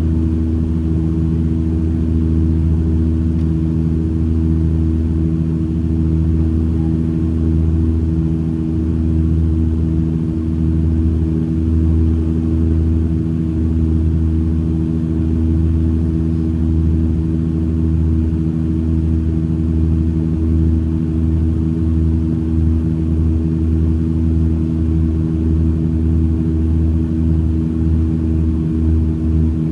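Airliner's engines droning steadily, heard from inside the passenger cabin, with a low hum of several steady tones; a throbbing beat grows stronger in the last few seconds.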